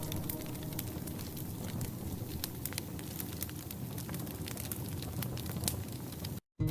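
Wood fire crackling in a fireplace, with many sharp pops and snaps over a soft steady hiss. Near the end the sound cuts out completely for a moment, and soft music comes back in.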